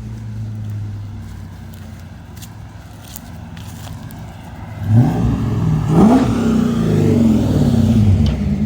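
A car engine idling steadily, then revved hard about five seconds in: the pitch climbs and drops through a few quick revs, and it stays loud after.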